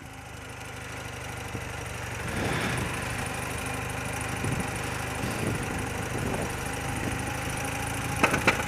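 Old BMW motorcycle engine running steadily, growing louder over the first couple of seconds. A few sharp clicks come near the end.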